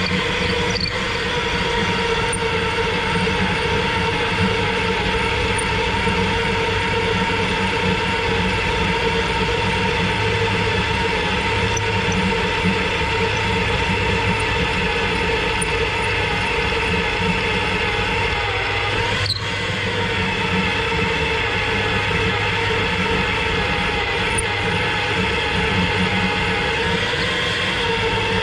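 Magnetic drill running steadily, its reamer cutting a dowel pin hole in the steel gearbox housing: a continuous metallic whine over the motor, with a brief dip about two-thirds of the way through.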